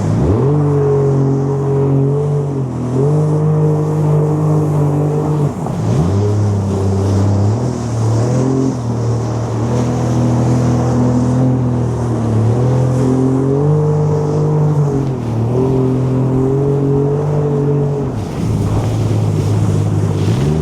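Jet ski engine running under way, its pitch stepping up and down several times as the throttle is opened and eased off, with two brief dips near the middle and near the end.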